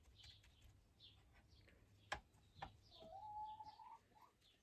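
Near silence with faint bird chirps in the background, a single sharp click about two seconds in, and a faint held note rising slightly for about a second near the three-second mark.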